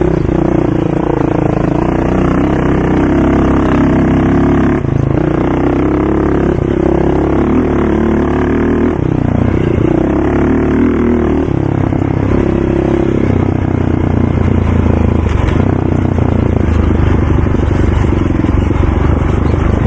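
ATV engine running hard and revving up and down as it is ridden, its pitch shifting every few seconds and settling lower near the end.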